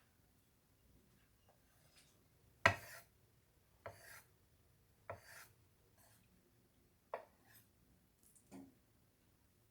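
Kitchen work at a counter: five sharp knocks at uneven intervals, about a second or two apart, each trailing off into a short rub or scrape.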